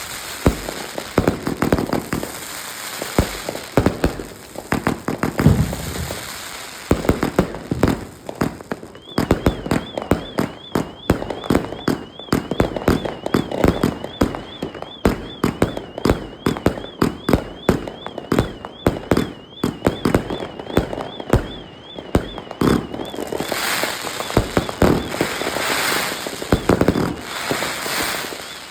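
A 100-shot, 1.2-inch fireworks cake firing in a long run of sharp bangs. In the middle stretch the shots come fast and even, under a high warbling whistle. Near the end they give way to a denser crackling.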